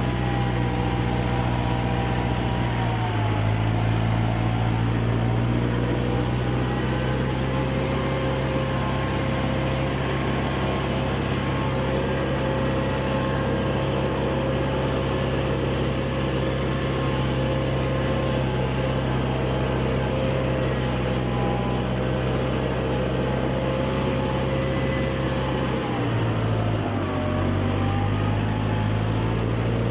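Tractor engine running steadily, its pitch shifting briefly about three seconds in and again a few seconds before the end.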